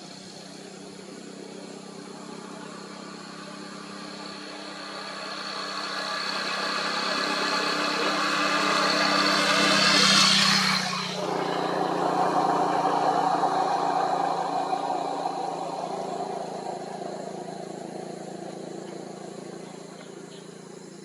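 A motor vehicle approaching and driving past. Its engine grows louder for about ten seconds, drops in pitch as it goes by, then fades away.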